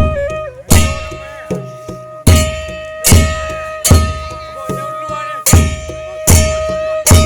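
Thai folk percussion ensemble of drums and cymbals playing a steady beat: a drum thump with a cymbal crash about every 0.8 seconds, over a metallic ringing tone that keeps sounding between strikes.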